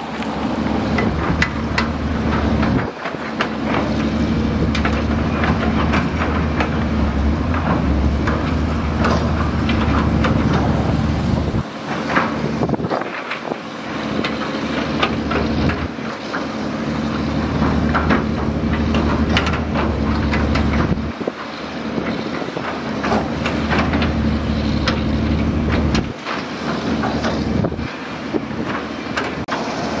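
Diesel engine of tracked heavy earthmoving machinery running under load, with frequent metallic clanks and rattles. The engine rumble dips briefly several times.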